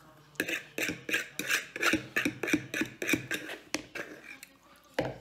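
Close-up chewing and mouth smacking of a person eating pasta, short sharp sounds about three a second, with a louder noise near the end.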